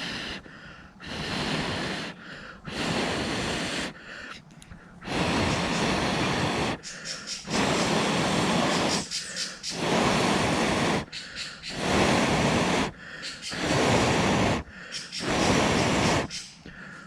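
A person blowing hard into a small fire's embers and kindling to bring it to flame, in about eight long, even breaths, each followed by a short pause to inhale.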